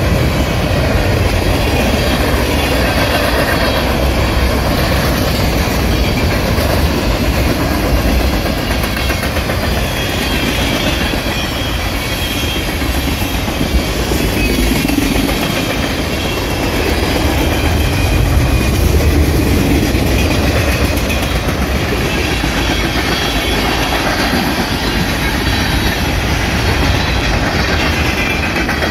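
Freight train cars rolling past at close range: tank cars and covered hoppers, their steel wheels running on the rails in a steady, loud rumble.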